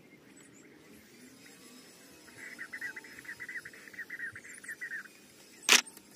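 A bird's rapid chattering call, about ten quick notes a second for nearly three seconds. Near the end comes a single sharp click, the loudest sound.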